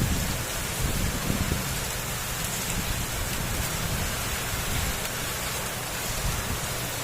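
Heavy rain pouring steadily, a dense even hiss with a low rumble that is stronger in the first second or so.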